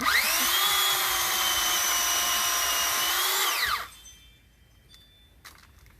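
Pole saw motor running in one burst of about four seconds: a high whine that spins up quickly, holds a steady pitch, then winds down and stops.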